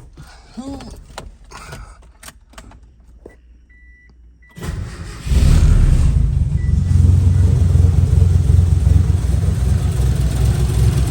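A few clicks and a short repeated electronic beep, then the 1988 Mitsubishi Starion's turbocharged G54B four-cylinder cranks about four and a half seconds in, fires within a second and settles into a steady idle through its new 3-inch turbo-back exhaust.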